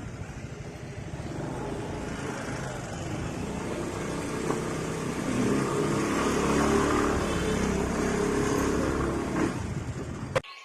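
A motor vehicle's engine running under road and wind noise, growing louder through the middle. It cuts off abruptly near the end.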